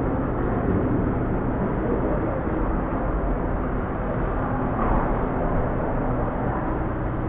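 Steady city street noise, with traffic running.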